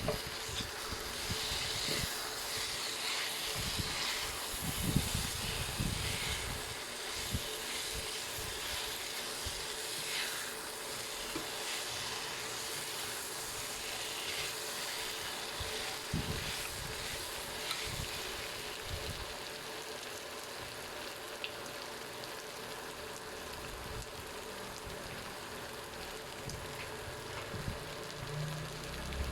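Sugar syrup with butter and condensed milk sizzling and bubbling in a pan, with a steady hiss and occasional low knocks.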